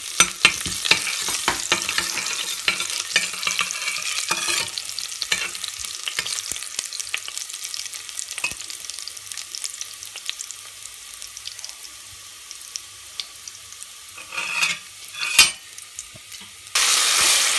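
Chopped garlic and cumin seeds sizzling in hot oil in a steel pot, with a steel spoon clicking and scraping against the pot as they are stirred; the sizzle slowly dies down. Near the end it cuts suddenly to a much louder, steady sizzle.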